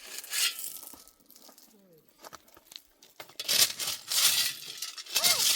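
Pebbles and gravel being scraped and shifted, crunching in three loud bursts with a few sharp clicks of stone on stone between them.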